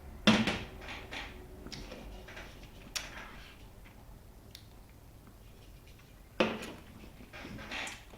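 Beer glass handled on a tabletop: a sharp knock just after the start and another about six seconds later, with a few small clicks between.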